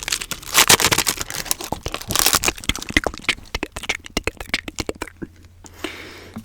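Pokémon card packaging and cards being handled: a dense run of sharp clicks and crackles, with louder crinkling swells in the first few seconds, thinning out near the end.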